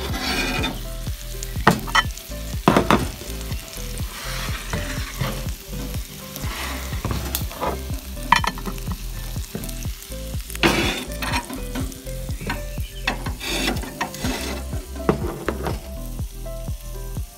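Curry-marinated chicken thighs sizzling in a hot cast-iron sizzler pan: a steady frying hiss full of sharp pops and crackles, a few of them louder.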